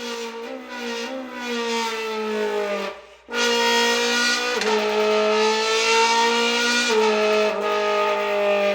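A man's voice imitating a Ferrari 458's racing exhaust note: a loud, buzzing held tone that breaks off briefly about three seconds in, then carries on for the rest, stepping down in pitch twice.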